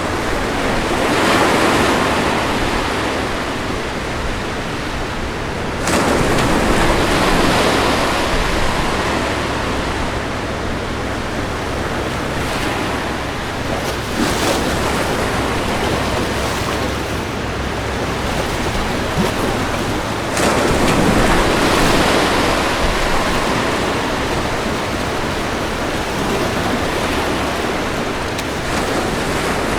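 Ocean waves breaking on a beach, a continuous wash of surf with several waves swelling and crashing in turn.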